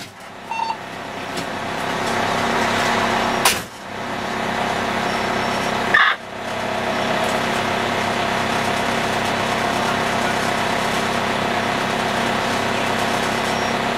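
Fire engine's engine running steadily, building up over the first couple of seconds, with two brief sharp breaks in the sound partway through.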